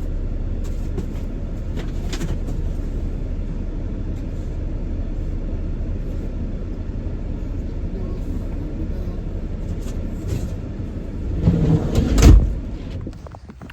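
Steady low rumble of a Dodge Caravan minivan's engine and road noise heard inside the cabin, then a few louder knocks about 11 to 12 seconds in, the loudest a door thump, after which the rumble falls away.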